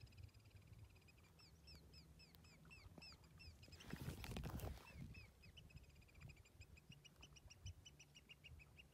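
Birds calling across the water, a run of short high down-slurred notes repeated several times a second, over a low wash of water and wind. A brief rush of noise cuts in about four seconds in.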